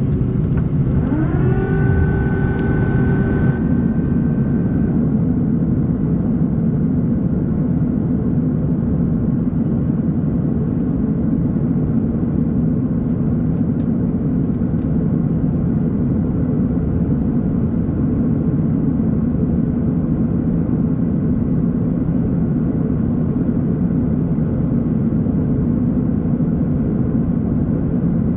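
Steady cabin rumble of an Airbus A330-900neo in flight: Rolls-Royce Trent 7000 engine and airflow noise heard from a window seat. Near the start a whine rises in pitch, holds for a couple of seconds, then stops.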